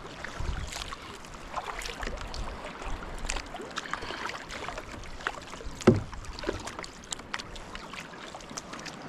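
Water splashing and lapping around a kayak, with many small irregular clicks and ticks and one louder knock about six seconds in.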